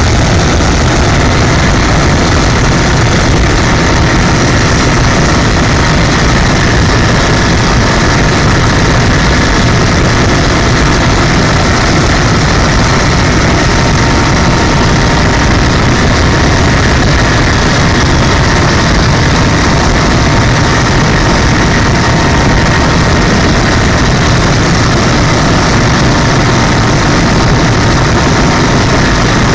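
Helicopter in flight: a loud, steady blend of engine and rotor noise with a faint steady whine, unchanging throughout.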